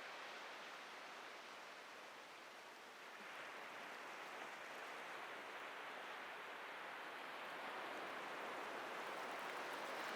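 Atlantic surf washing onto a beach: a steady hiss of breaking waves that eases a little, then swells again about three seconds in and builds slowly.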